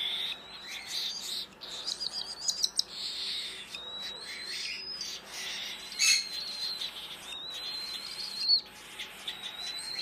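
Young birds cheeping: long, thin, high-pitched peeps broken by quick runs of short chirps. A young bird is begging to be fed.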